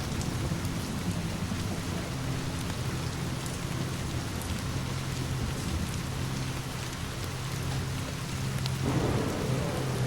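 Steady rain falling, with distant thunder rumbling low underneath and swelling louder about nine seconds in.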